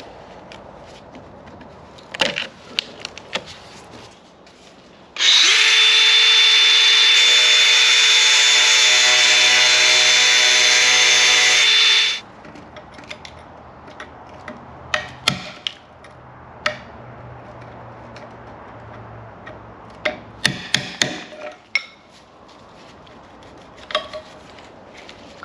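A handheld power tool runs at a steady speed with a constant high whine for about seven seconds, starting about five seconds in and cutting off suddenly. Scattered knocks and clatters of metal parts being handled come before and after it.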